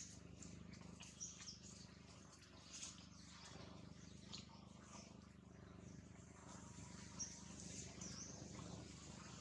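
Faint, scattered short high bird chirps over a low steady hum.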